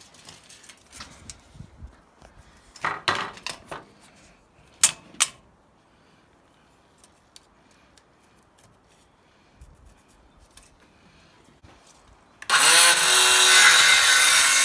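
A few knocks and clacks of lumber and tools being handled, then near the end a power tool starts up and runs loudly with a steady motor whine.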